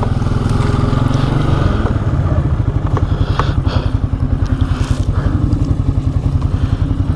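ATV engine running at low speed with a fast, even pulse, its pitch shifting briefly as the throttle changes. A few short knocks and clatters come through as the machine crawls over rough trail.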